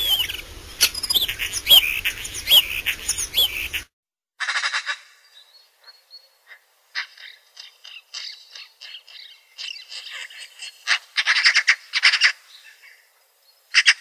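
Songbirds calling, in two separate recordings one after the other. First, short sharp chirps come about once a second over a background hiss and stop abruptly about four seconds in. After a brief silence, a bird sings in rapid trills and chattering phrases.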